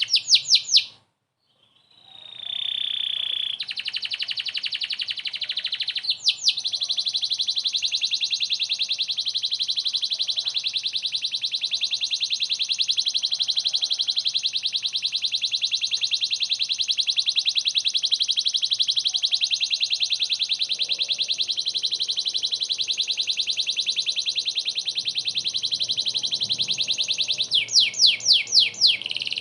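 Domestic canary singing continuously in a very fast, rolling trill. There is a brief dropout about a second in, and a few louder sweeping notes near the end.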